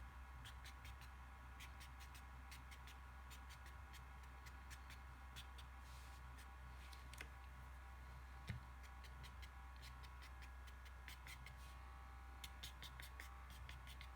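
Faint, quick drawing strokes on paper, many short ticks as fur is sketched onto a paper fox, over a steady low electrical hum, with one soft knock a little past the middle.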